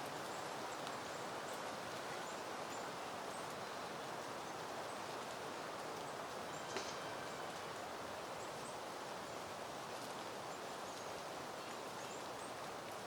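Steady breeze rustling through the leaves and blooms of peony plants. Faint short high chirps are dotted through it, and there is a single sharp tick about halfway through.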